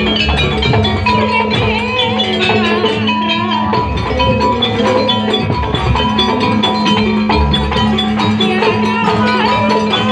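Live jaranan music played on a Javanese gamelan ensemble: drums and metallophones strike a steady rhythm over a held low note, with a wavering melody on top.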